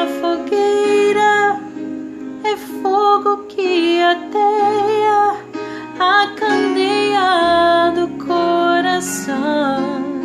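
A song: acoustic guitar accompaniment under a female voice singing a slow melody of held notes.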